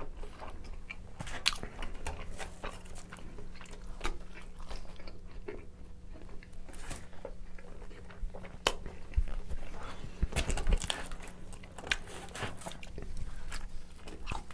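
Close-miked chewing of pepperoni pizza, with many short wet mouth clicks and smacks.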